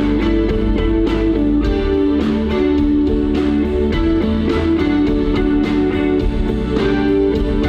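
A live rock band playing an instrumental passage, led by electric guitar over bass and a steady drum beat.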